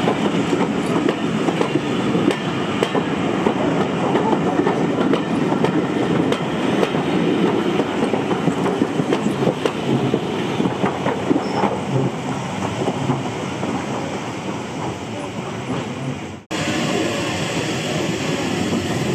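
Steam-hauled train running along the line, its wheels clicking over the rail joints. There is an abrupt cut about sixteen and a half seconds in, after which the train sound carries on.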